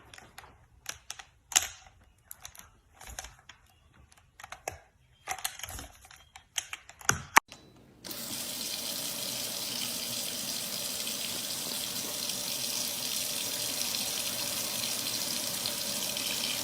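Scattered sharp clicks and taps of small hard objects. After about eight seconds these give way to a steady rush of running water, as from a tap.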